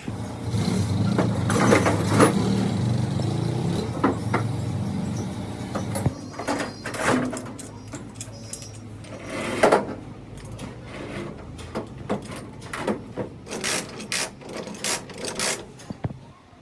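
A motor runs steadily for about the first six seconds with rasping noise over it, then stops, giving way to a string of separate knocks and clanks, thickest near the end.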